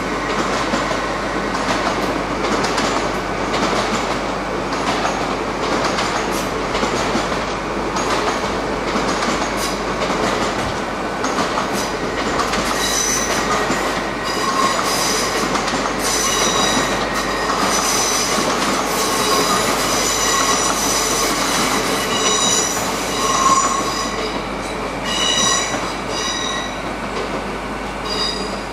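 A train running over rail joints and points, its wheels clicking, with high-pitched wheel squeal that comes and goes from about halfway through.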